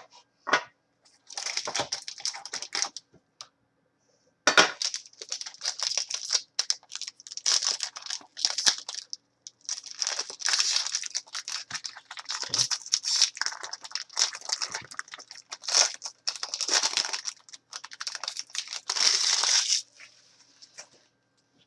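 Plastic wrapping on a box of trading cards being torn open and crinkled, in irregular crackling stretches with short pauses, ending a couple of seconds before the end.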